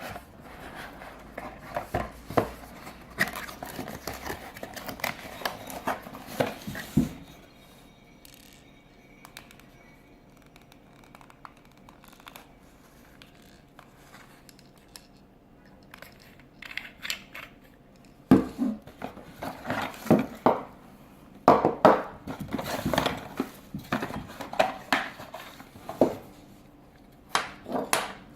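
A shower head being handled and unpacked: packaging crinkling, and plastic parts clicking and knocking. There is a quieter stretch with only a few faint clicks in the middle, and louder knocks and clatter start about two-thirds of the way in.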